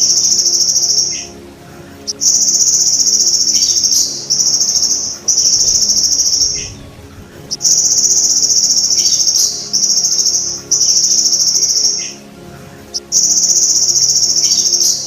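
Belalang emas (golden grasshopper) stridulating: a loud, high-pitched buzzing trill in long stretches broken by pauses of about a second. A few faint, quick downward chirps come in during the pauses.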